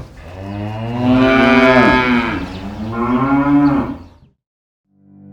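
Dairy cow mooing: one long, loud call that rises and falls in pitch and stops about four seconds in. A low music tone fades in near the end.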